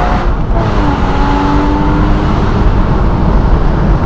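Porsche Boxster Spyder's flat-six engine pulling on the road, its note dipping about half a second in and then rising slowly, under heavy wind buffeting from driving with the roof down.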